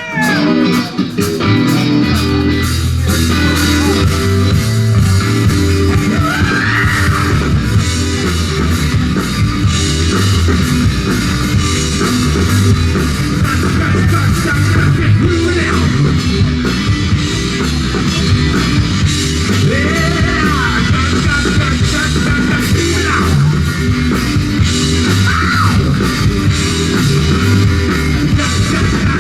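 Rock band playing loud and steady, with drum kit, electric guitar and bass. The bass comes in heavily about two seconds in.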